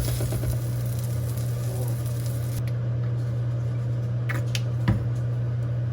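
Food sizzling in a frying pan, the sizzle cutting off suddenly a little before halfway. A steady low hum carries on underneath, with a few light clicks and a knock near the end.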